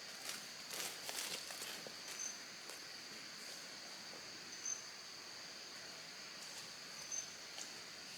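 Steady high-pitched drone of insects outdoors, with a short high chirp repeating about every two and a half seconds. A cluster of light crackling clicks sounds in the first two seconds.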